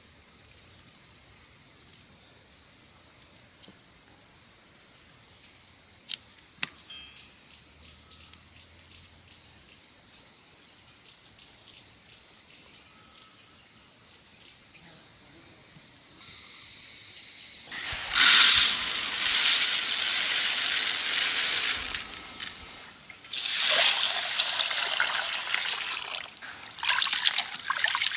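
Birds chirping in quick repeated high notes, then liquid pouring loudly in two long spells of about four to five seconds each.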